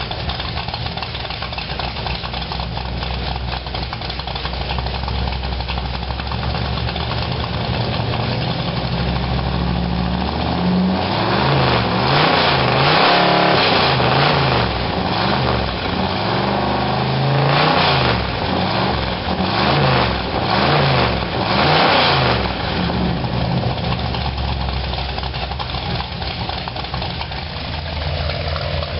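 Truck engine idling steadily. About a third of the way in, the engine pitch rises and falls several times for roughly ten seconds, as it revs or pulls through gears, then it settles back to a steady idle.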